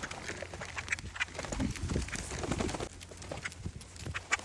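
Birds from a begging flock, with an irregular run of sharp clicks and short calls.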